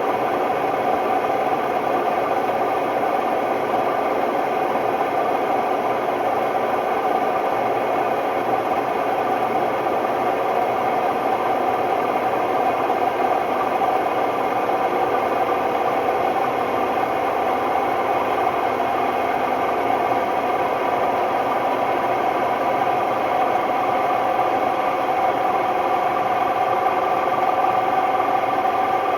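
Hotpoint Ultima WMD960 washing machine on an extremely noisy spin: a loud, steady roar with a strong hum that holds at one pitch throughout. It is the sign of bad bearings.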